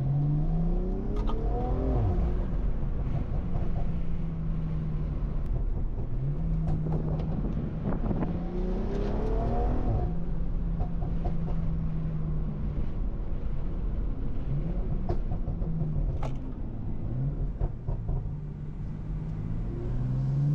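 Tuned BMW M340i's turbocharged B58 3.0-litre inline-six pulling hard under acceleration in Sport Plus. The engine note climbs steeply at the start and again from about seven to ten seconds in, and runs at a steady pitch in between.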